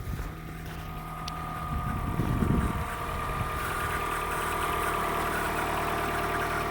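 Old car's engine idling steadily just after a cold start. It grows louder over the first few seconds, then holds an even note.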